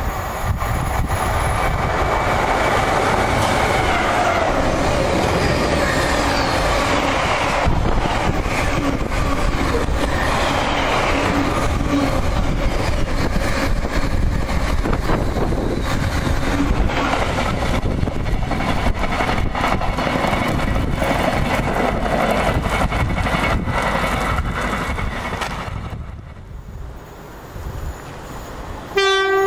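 A container freight train passes close at speed, a continuous loud rush and rumble of wheels and wagons that dies away about 26 seconds in. Right at the end, a train horn starts to sound.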